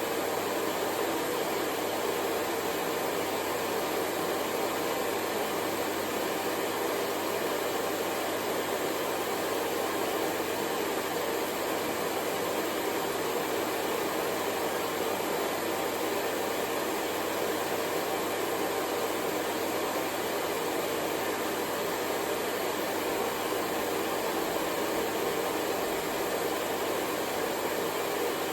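Hair dryer running steadily: an even blowing hiss without a break.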